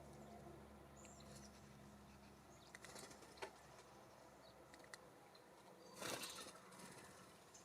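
Faint small songbirds: a few light taps and brief high chirps, then a short flutter of wings about six seconds in.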